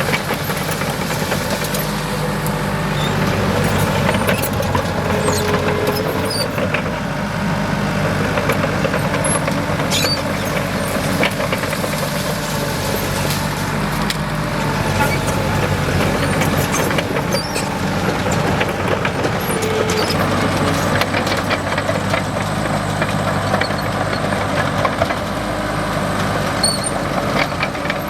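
Komatsu D37EX bulldozer's diesel engine running steadily at work, with scattered clanks and knocks.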